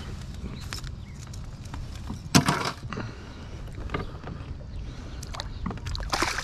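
Handling noises aboard a kayak while a just-caught fish is dealt with: a steady low rumble broken by sharp knocks and splashes. The loudest comes about two and a half seconds in, with another near the end.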